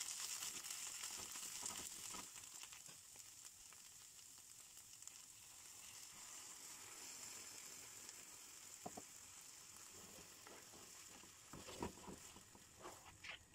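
Chopped onion and spinach sizzling in a nonstick frying pan while stirred with a spatula. The sizzle is loudest at first and settles to a softer steady hiss after a few seconds, with a few light knocks of the spatula near the end.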